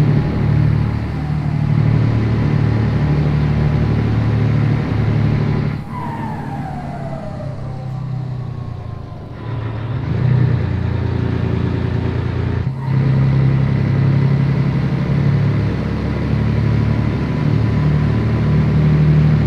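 Scania 113 truck's diesel engine pulling under load. Its note breaks off for gear changes about six and thirteen seconds in, and a falling whistle follows the first break.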